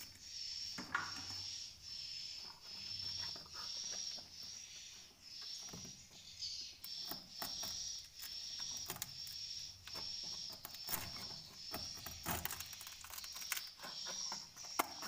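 Swiftlets calling inside a swiftlet house: a high-pitched chirp repeating about once a second, with scattered clicks and knocks.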